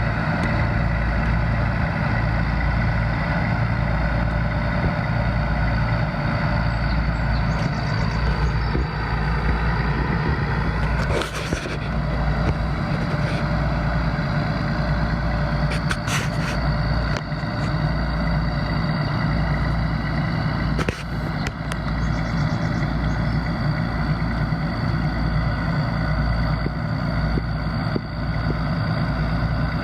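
Heavy engine running steadily at constant speed, with a few brief knocks about a third, half and two-thirds of the way through.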